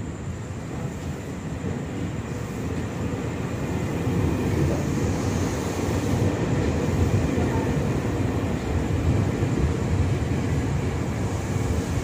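Electric commuter train running past close alongside the platform. The rumble of its wheels on the rails grows louder over the first few seconds as it comes in, then holds steady as the cars go by.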